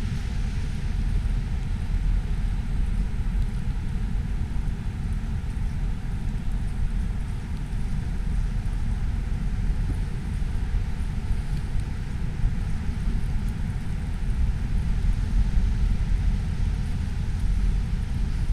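Wind buffeting the microphone in a snowstorm: a loud, constantly fluttering low rumble with no distinct events.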